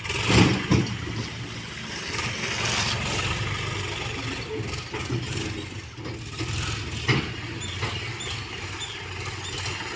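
Engine of a heavy machine, a tractor or backhoe loader, running steadily at idle, louder for about the first second.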